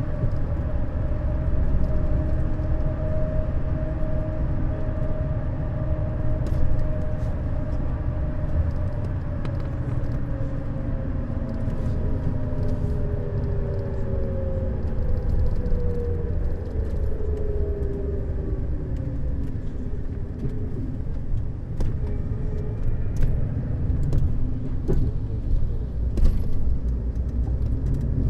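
Neoplan Skyliner N 1122/3C double-decker coach under way: steady engine and road rumble, with the engine note sliding down in pitch about halfway through and scattered small rattles and clicks.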